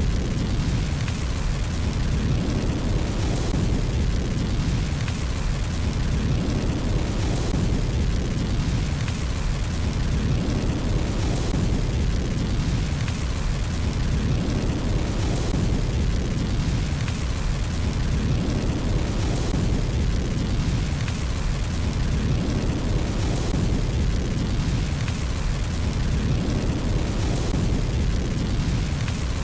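Fireplace fire burning with a steady low rumble, crackling and popping every second or two.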